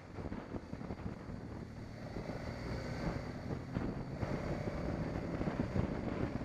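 Wind rushing over the microphone of a riding BMW 650 GS motorcycle, its engine running underneath. A faint steady whine joins about four seconds in.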